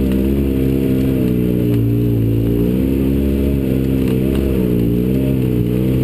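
A 4x4's engine running at low revs while it climbs a rocky trail, its pitch rising and falling a little with the throttle.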